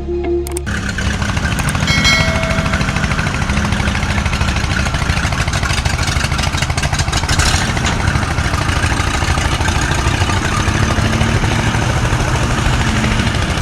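A tractor engine running steadily with a fast, even chug, starting just under a second in.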